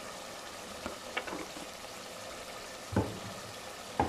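Chicken curry masala frying in ghee in a metal pot, just after turmeric has been added: a low, steady sizzle. A few knocks sound over it, the loudest two about three and four seconds in.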